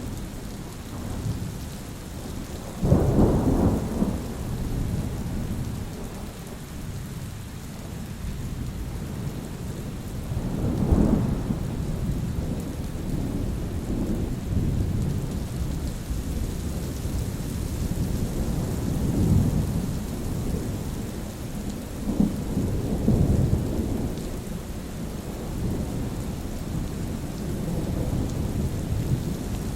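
Steady rain with rolling thunder. A sudden crack of thunder comes about three seconds in, and further low rumbles swell and fade around the middle and later on.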